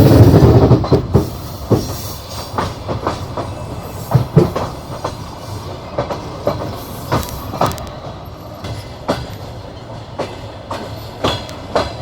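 Passenger train wheels clattering over rail joints, heard from a moving carriage. A heavy rumble fills the first second or so, then the train runs on with irregular sharp knocks.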